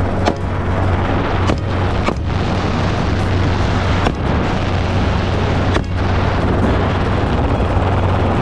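Helicopter in flight heard close up: a loud, steady low drone with rushing wind noise, broken by a few brief sharp cracks.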